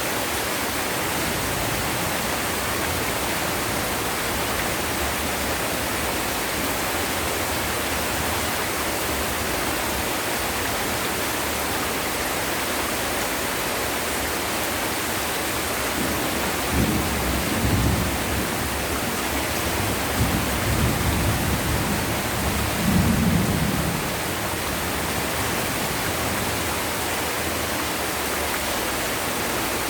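Heavy rain pouring steadily, with thunder rumbling low in several swells a little past halfway through before it dies away.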